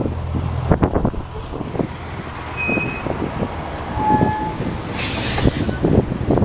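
Heavy truck engine running with a low rumble and repeated knocks and rattles. Thin high squeals come through in the middle, and a short burst of hiss follows about five seconds in.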